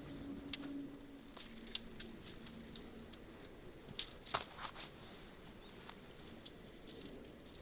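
Scattered light clicks and ticks at irregular intervals, with a small cluster about four seconds in. A low ringing tone fades out at the start.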